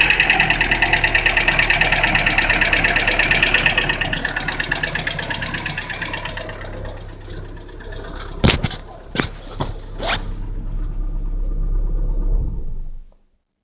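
Daewoo Lanos 1.5 engine idling cold with a fast, even knock that fades away over the first six seconds or so, as the engine warms. A few sharp separate clicks follow about two-thirds of the way in, then a steady idle that cuts off suddenly just before the end.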